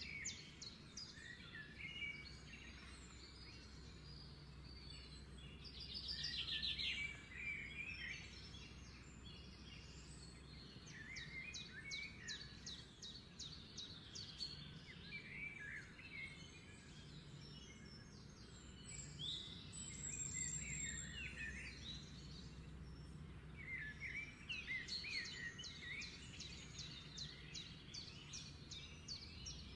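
Small birds chirping and trilling on and off, with quick runs of repeated notes, over a steady low hum.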